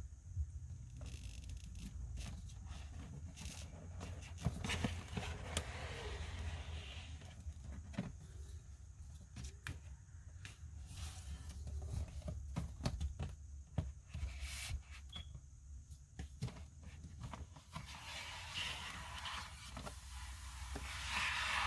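Hands unpacking a boxed collectible figure: scattered clicks and taps with stretches of scraping and rustling of cardboard and plastic packaging, over a steady low hum.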